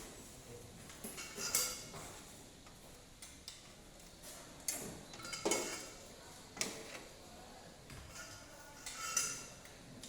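Metal hand tools and cylinder-head parts clinking and knocking against each other in about five separate strikes, each with a short ringing tail.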